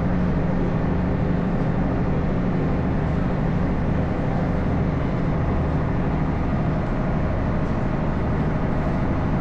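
Sightseeing cruise ship's engine running, heard on board as a steady low drone with a slow throb.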